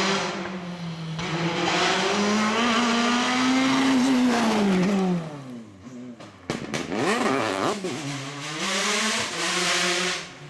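Rally car engine at full throttle on a special stage, climbing in pitch and then falling away as it passes. About six and a half seconds in, another rally car is heard revving hard, its pitch rising and dropping quickly through gear changes.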